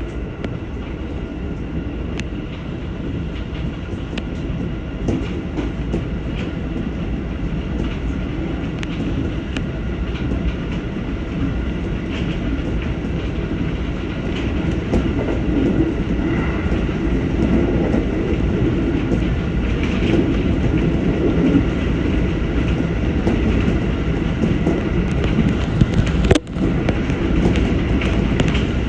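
JR 211 series electric train running on the line, heard from inside the car: a steady rumble of wheels on rail and running gear that slowly grows louder, broken by a brief dropout about 26 seconds in.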